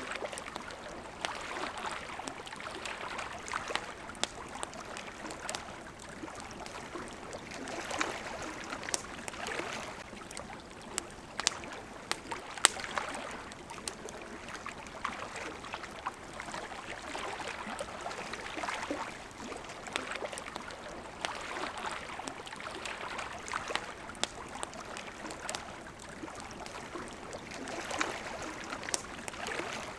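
Campfire crackling with scattered sharp pops, over water lapping in soft swells every few seconds. One pop a little before the middle stands out louder than the rest.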